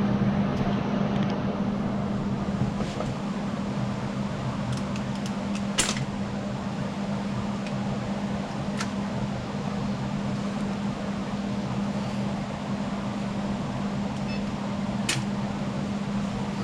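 Steady mechanical hum like an electric fan or motor, with a constant low tone, broken by a few sharp clicks.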